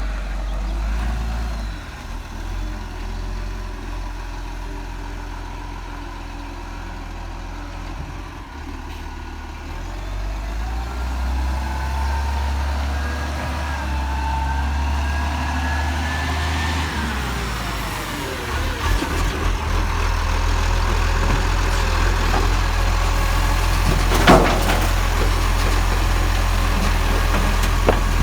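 Garbage truck engine running, with a whine that climbs for several seconds and then drops away. A single sharp bang about two thirds of the way through.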